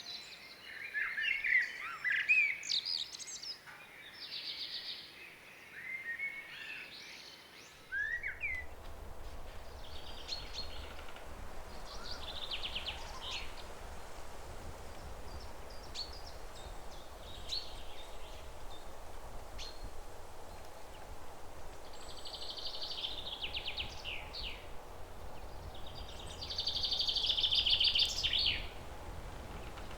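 Songbirds singing: a dense chorus of chirps and warbles, which about eight seconds in gives way to scattered calls and buzzy trills over a steady low rumble and hiss. The loudest trill comes near the end.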